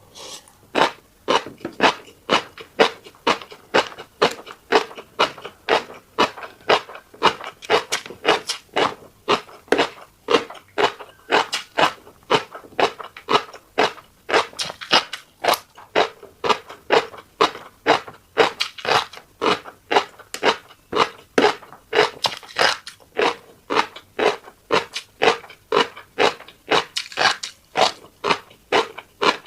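Close-miked chewing of a fish roe rice bowl: an even rhythm of sharp, wet chews, about three a second.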